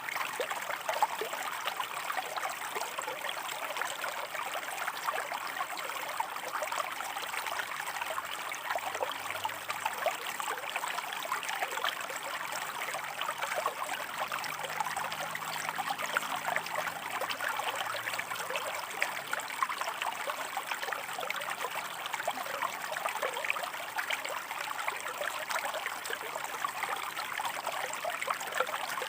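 Shallow river water running and splashing over rocks, a steady burbling with many small splashes and no pauses.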